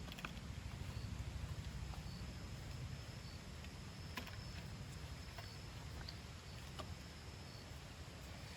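Campfire crackling with a few scattered pops over a low steady rumble, while insects chirp faintly and repeatedly.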